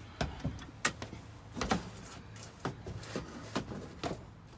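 Irregular knocks, clunks and scrapes as the engine doghouse cover is worked loose and lifted out of a truck cab.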